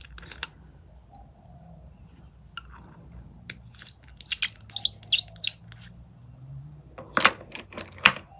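Small hard objects being handled: scattered light clicks and clinks, with a louder run of clicks near the end.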